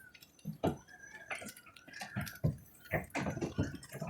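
Quarter-size hailstones striking hard surfaces in irregular sharp knocks, several a second, with a faint wavering high whistle about a second in.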